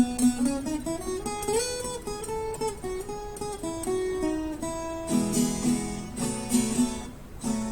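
Acoustic guitar playing a song's introduction: a picked melody line of single notes, changing to rhythmic strummed chords about five seconds in.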